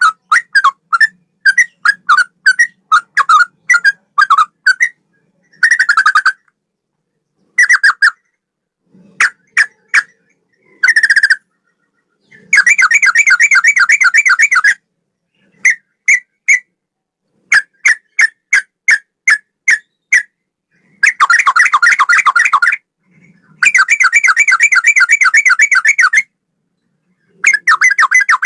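Yellow-vented bulbul (trucukan) singing, in a style likened to the straw-headed bulbul (cucak rowo): runs of short, separate whistled notes alternating with several rapid, warbling bursts of about two seconds each.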